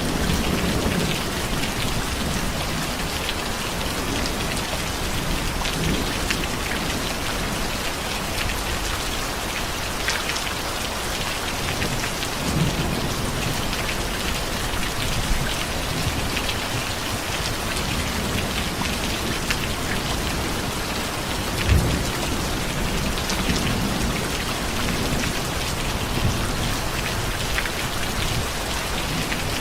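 Steady heavy rain falling on surfaces, with occasional low rumbles of thunder and one sharper low thump about three-quarters of the way through.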